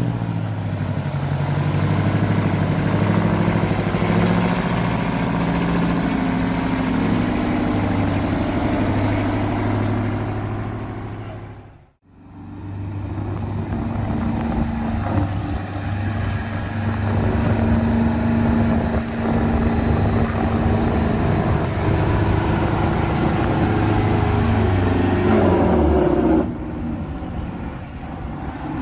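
Semi-truck Detroit Diesel engines running and being revved, their pitch rising and falling. The sound cuts out briefly about twelve seconds in and resumes on another engine. Near the end the revs fall away and it drops to a lower idle.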